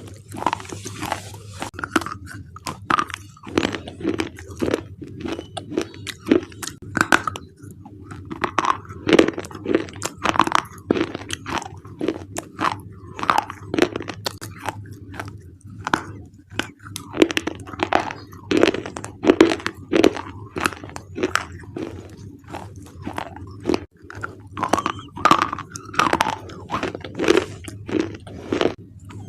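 Thick black slate bars being bitten and chewed: a continuous run of sharp, irregular crunches.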